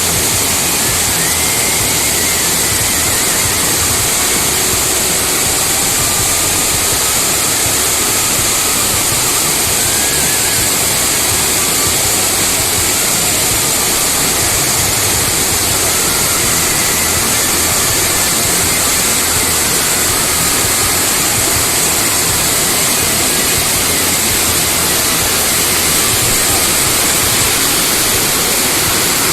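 Steady, unbroken rushing noise, strongest high in the treble.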